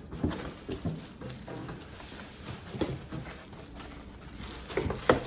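Cardboard box and plastic vacuum parts being handled and lifted out of their packaging: scattered irregular knocks and rustles, with a sharp knock about five seconds in.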